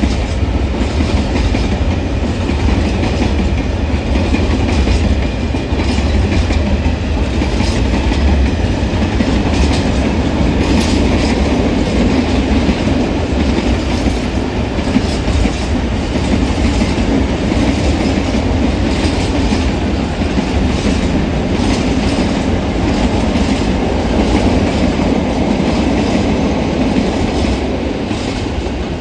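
A freight train of empty open coal wagons rolling past, a steady loud rumble of wheels with rapid clickety-clack over the rail joints.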